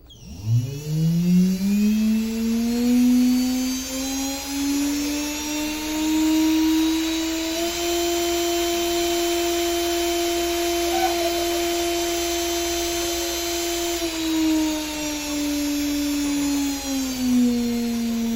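Homemade jet engine's motor whirring as it is throttled. It spins up quickly from rest, climbs more slowly to a steady top speed held for about six seconds in the middle, then winds back down and drops off sharply at the end.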